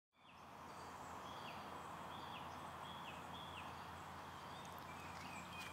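Faint outdoor ambience with a bird calling, a short falling note repeated several times at a little under a second apart, over a steady low hiss.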